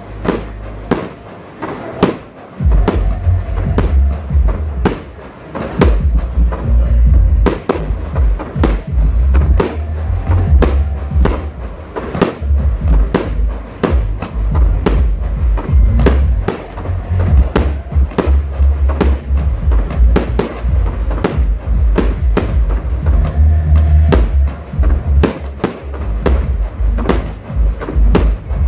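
Fireworks display: shells bursting in rapid, irregular succession, about two bangs a second, over a deep continuous rumble that sets in a couple of seconds in.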